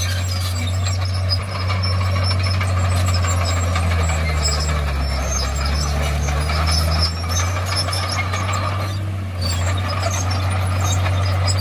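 Komatsu D51PX bulldozer's diesel engine running under load, a steady low drone whose pitch drops and rises again midway.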